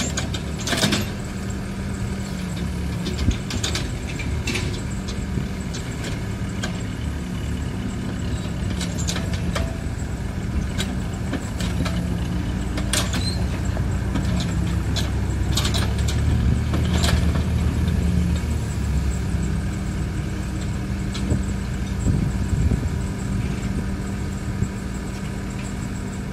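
Case 580M backhoe loader's diesel engine running steadily under working load, swelling in the middle and settling again, with scattered sharp knocks.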